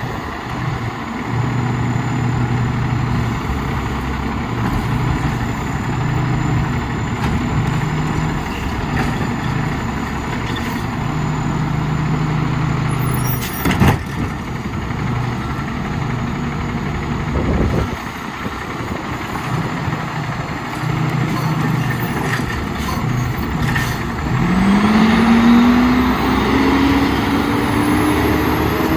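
Diesel engine of an Autocar WXLL garbage truck with a McNeilus Autoreach side loader, running steadily. There is a single sharp clack about halfway through, and near the end the engine revs up in a steady rising pitch.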